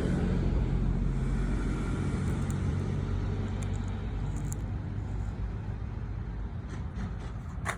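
A motor vehicle's engine running as a low rumble that slowly fades, with a sharp click near the end.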